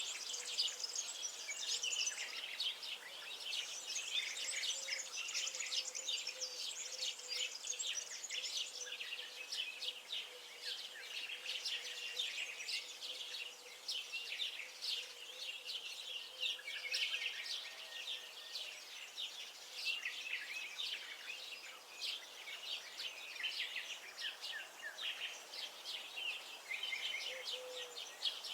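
Many small birds chirping and singing at once, a dense, continuous chorus of quick high notes overlapping one another.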